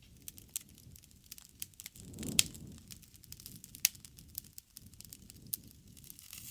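Wood bonfire crackling: a steady low rustle of flames with frequent sharp pops and snaps, two louder pops about two and a half and four seconds in.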